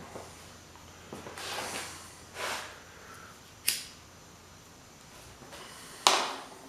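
Hammer blows on a big flathead screwdriver driven against a seized plastic pump impeller: a sharp crack about halfway through and a louder one near the end, with clattering tool handling between.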